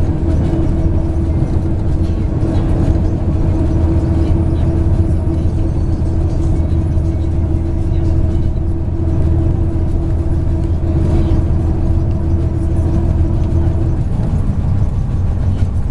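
MAZ 103 bus heard from inside the cabin while driving: a steady low engine and road drone with a constant whine on top, which stops about fourteen seconds in.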